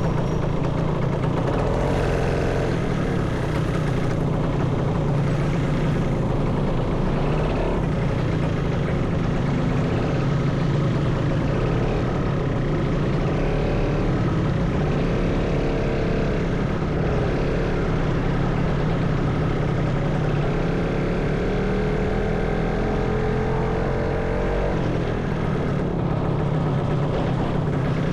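Motorcycle engine running steadily while riding in traffic. For a few seconds in the second half, an engine note climbs, then drops away.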